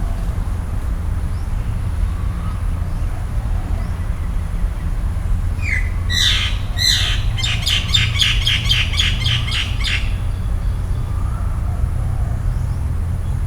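A bird calling for about four seconds midway: two or three harsh sweeping notes, then a fast run of short notes, about six a second, that stops abruptly. Under it, a steady low rumble.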